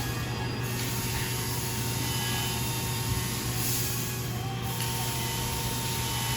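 Emerson Stratojet ceiling fans running: a steady low hum with an even rush of air noise.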